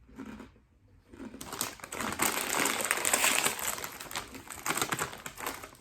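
A chip bag crinkling as it is handled: a dense, crackly rustle that starts about a second in and runs for about four seconds.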